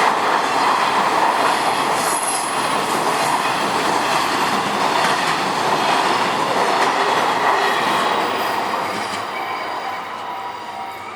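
A train passing over a railway level crossing, its running noise loud and steady at first, then fading from about eight seconds in as the train moves away. As the train noise dies down near the end, the crossing's warning bell can be heard ringing in a steady repeating ding.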